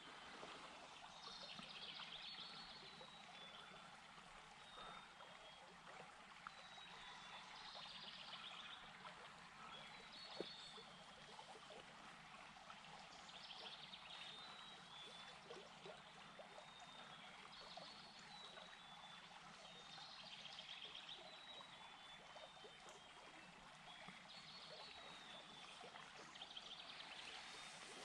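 Faint outdoor morning ambience: small birds singing short high phrases every few seconds over a steady soft hiss.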